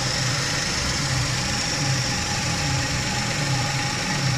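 Suzuki Every Wagon DA64W's K6A three-cylinder turbo engine idling steadily, smooth and quiet, with its idle air control valve freshly cleaned.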